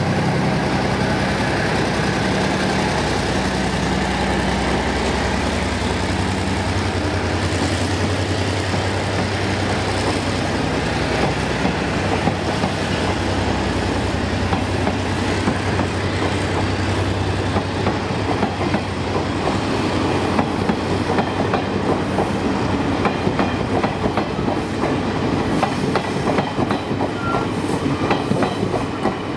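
Departing passenger train: the TRA R100-class diesel-electric locomotive's engine note passes and fades over the first several seconds, then the coaches roll by with a steady rumble and rhythmic clickety-clack of wheels over rail joints that grows denser as the train gathers speed.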